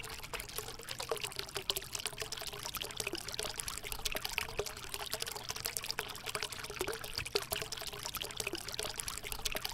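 Homemade thermocol-and-cement mini waterfall fountain running, with water pouring and trickling steadily and many small drips and splashes.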